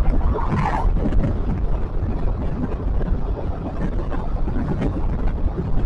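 Steady low rumble with wind noise on the microphone, the sound of travelling in a moving vehicle.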